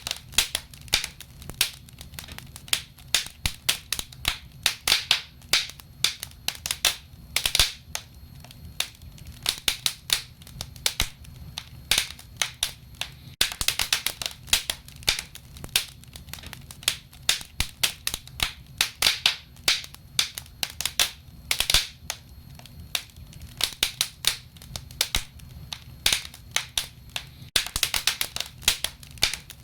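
Wood fire crackling: irregular sharp pops and snaps, several a second at times, over a faint low rumble of the burning.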